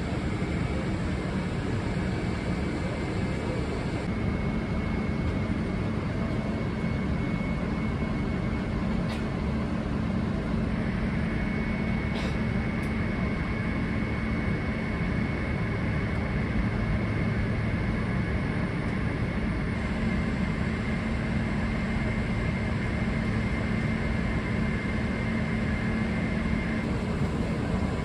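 Steady aircraft cabin noise inside a Boeing 777-300ER on the ground before takeoff: an even low rumble with steady hums, and a couple of faint clicks about 9 and 12 seconds in.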